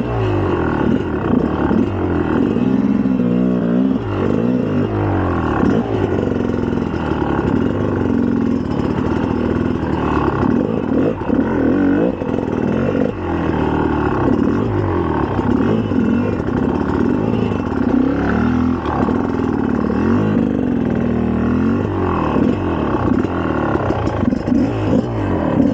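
2004 GasGas EC300's two-stroke single-cylinder engine running under load while being ridden, its pitch rising and falling over and over as the throttle is opened and shut.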